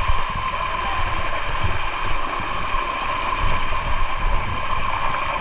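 Waterfall rushing steadily, with a low rumble that comes and goes underneath.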